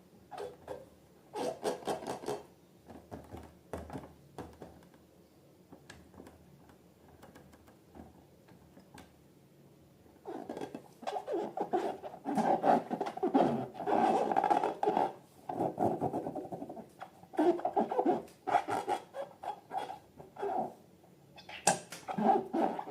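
Slime being worked by hand in a container: irregular rubbing, scratching and squishing, sparse at first and then busy for much of the second half.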